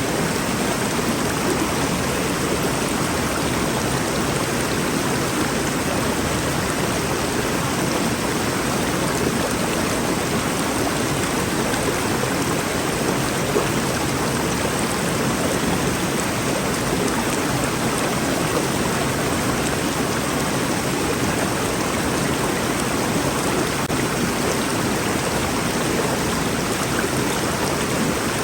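Rainforest river flowing in a steady, continuous rush of water.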